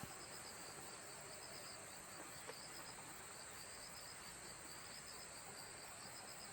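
Insects chirping steadily: a continuous high-pitched buzz with a rapid, repeated pulsing chirp just beneath it, faint against the outdoor quiet.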